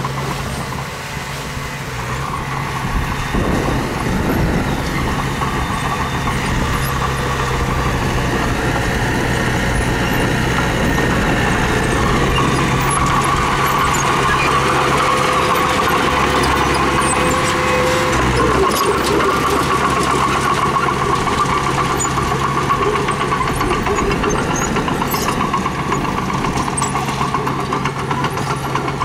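Mini bulldozer's diesel engine running steadily, getting a little louder about three seconds in.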